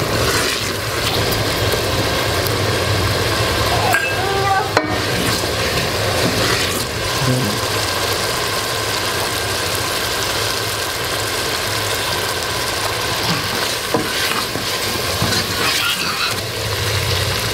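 Tomato masala sizzling and frying in an aluminium pressure cooker while a wooden spoon stirs and scrapes it round the pot, with a steady low hum underneath.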